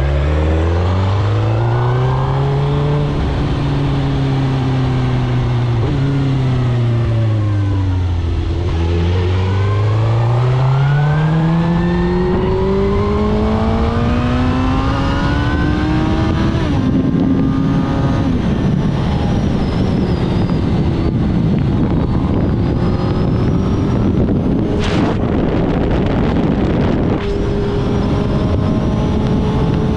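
2006 Suzuki GSX-R1000 K6's inline-four engine through a full Akrapovic titanium exhaust, heard from on the bike. It revs up and holds, eases off and slows to a low point, then pulls up in one long rising climb; after a brief dip it runs faster and steadier under growing wind rush.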